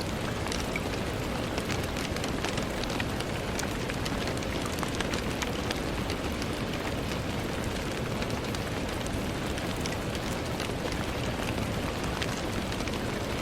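Steady rain falling on a window: an even rushing hiss with many separate small drop ticks.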